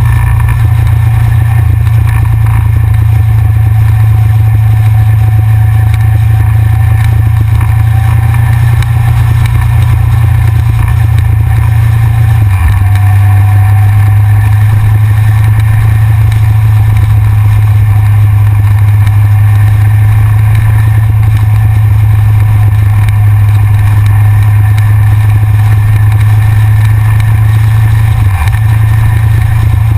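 Yamaha XJR's inline-four engine running loud and steady at cruising speed, heard from a camera mounted on the front of the bike, with brief dips in the engine note about 12 seconds in and again near the end.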